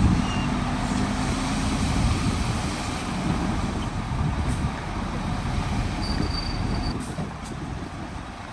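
Diesel engine of heavy construction machinery running with a low rumble that eases off toward the end. A brief high, steady tone sounds about six seconds in.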